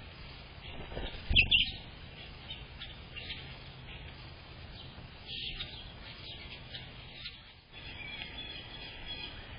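Small birds chirping, with short high chirps scattered throughout and a run of them near the end. A brief loud thump with a sharp chirp about a second and a half in.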